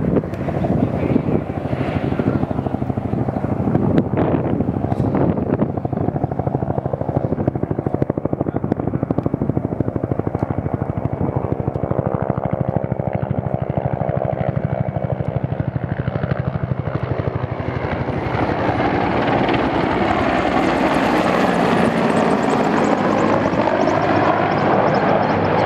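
Helicopter flying past, its rotor beating steadily; from about two-thirds of the way through, a higher engine whine bends in pitch and the sound grows louder as it comes closer.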